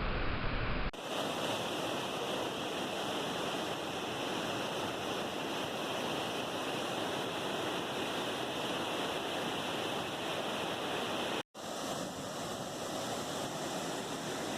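Waterfall rushing: a steady, even roar of falling water, broken by an abrupt cut about a second in and a momentary dropout about three seconds before the end.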